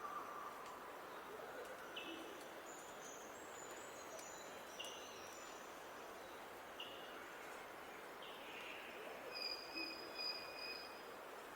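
Wild birds singing over a steady hiss of outdoor background noise: a short high call repeats about every two seconds, with higher twittering notes between, and a pair of longer whistled notes near the end.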